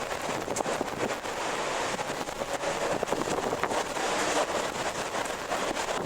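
Strong wind rushing steadily, with faint creaks and ticks scattered through it.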